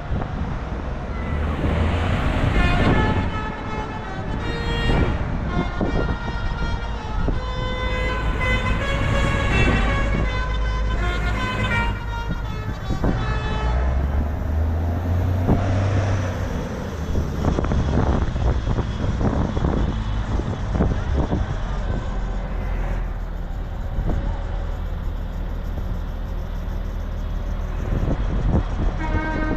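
Tractors driving past with their diesel engines running, and horns tooting repeatedly through roughly the first half.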